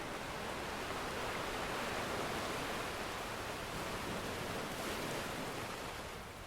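Ocean surf washing in a steady rush that swells slightly and then eases off near the end.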